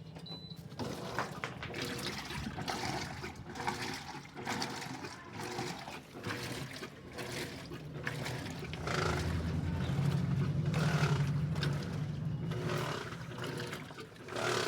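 Electrolux LED14 top-loading washing machine running with water in the drum: water sloshing and splashing in irregular surges over a low motor hum, which grows louder in the middle.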